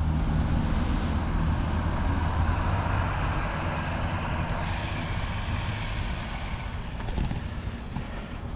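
A bus moving off: its engine and tyre noise gradually fading as it goes.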